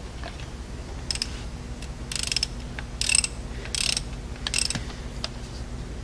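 Ratchet wrench clicking in about five short bursts as it tightens the Allen-head plug back into the oil bypass valve port of a Cummins ISX engine.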